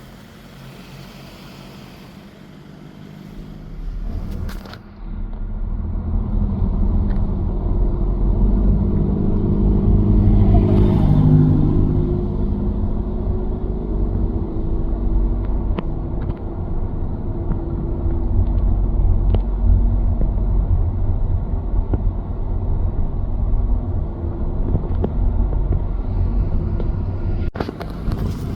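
A motor vehicle's engine rumbles low and steady. It grows louder a few seconds in and swells in pitch briefly near the middle.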